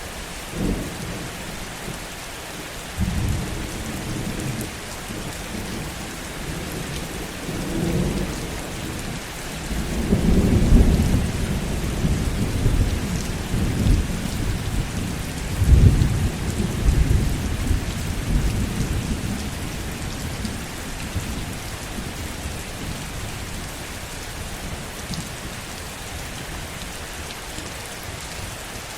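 Heavy rain falling steadily, with thunder rumbling low. A few short rumbles come in the first several seconds, then a long rolling peal builds about ten seconds in, is loudest around eleven and sixteen seconds, and fades out after about twenty seconds.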